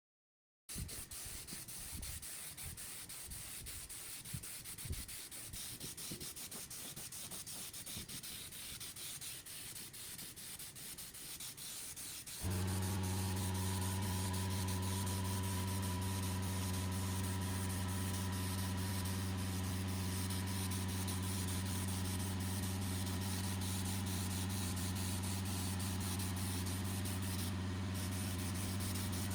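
A steady hiss with scattered low knocks, like sanding or rubbing, then about twelve seconds in an electric motor starts and runs with a steady low hum.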